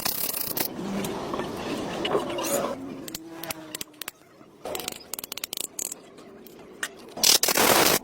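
Workshop sounds of hand tools on engine parts: a run of sharp metallic clicks and knocks, then a short, loud rushing hiss near the end.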